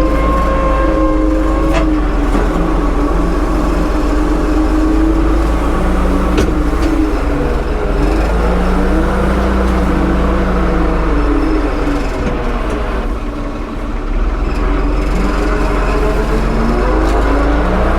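Bauer 10-inch 20-volt battery chainsaw cutting wood, its motor whine sagging in pitch as the chain loads in the cut and rising again as it frees up.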